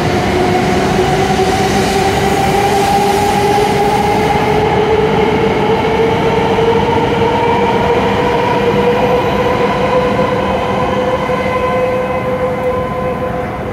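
E7 series Shinkansen accelerating away from the platform: a motor whine rises steadily in pitch over a loud rushing of wheels and air. The rushing eases a little near the end as the last cars pass.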